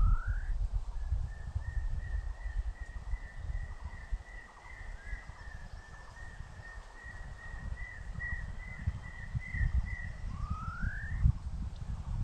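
A bird calling: a rising whistle, then a long string of quick, even notes lasting about nine seconds, and a second rising whistle near the end, over a low rumbling background noise.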